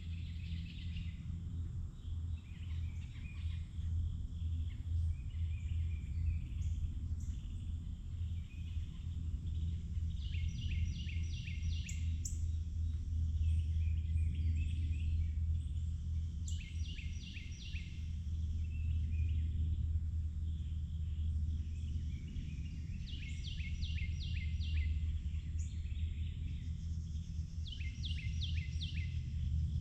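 Forest ambience: a bird repeatedly sings a short phrase of five or six quick, evenly spaced notes, about every six seconds, with fainter chirps from other birds between phrases. Beneath it all runs a steady low rumble.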